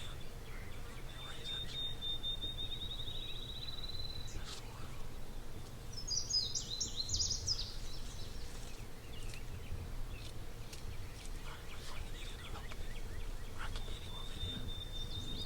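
Songbirds calling outdoors: a high, even trill of about three seconds near the start and again at the end, and a louder, more varied warbled song from another bird about halfway through, over a steady low background rumble.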